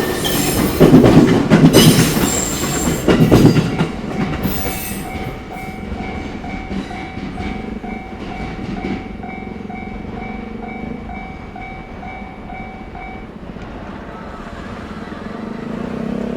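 Train passing over a level crossing, its wheels clattering on the rail joints, loud for the first few seconds and then fading away. The Japanese crossing's electronic warning bell rings on at about two strikes a second and stops about thirteen seconds in.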